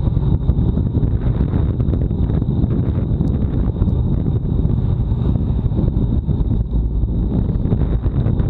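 Wind buffeting the microphone of a bike-mounted action camera during a fast road-bike time trial: a loud, steady, low rumble. A faint, thin, high whine runs underneath.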